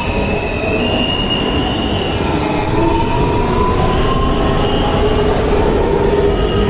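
Subway train running between stations, heard from inside the car: a steady loud rumble of wheels on rail with high squealing tones from the wheels that drift slowly up and down in pitch.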